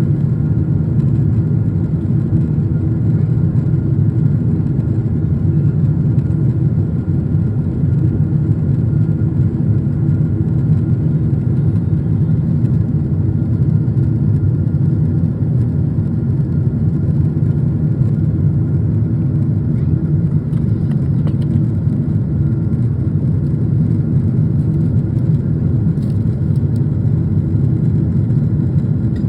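Steady engine and airflow drone inside a passenger airliner's cabin in flight: a loud, even, low rumble with a few faint steady tones above it.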